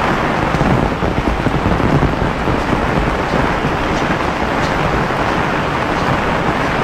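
Heavy rain falling steadily as a dense hiss, with a low rumble swelling about one to two seconds in.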